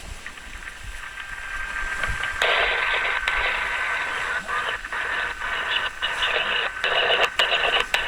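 Static-like hiss with a steady high whistle through it, like a radio between stations. It cuts in sharply about two and a half seconds in and drops out briefly several times.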